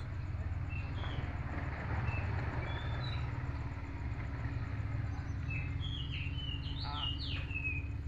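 Faint short bird chirps and whistles over a steady low hum: a few scattered chirps early on, then a quick run of rising and falling whistles near the end.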